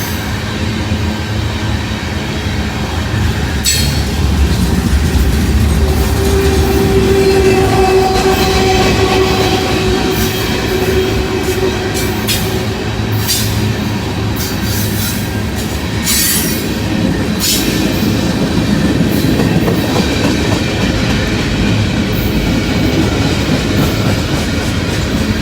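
Freight cars of a long CSX mixed manifest train rolling past: a steady rumble of steel wheels on the rails, with repeated sharp clicks and a held whine for several seconds partway through.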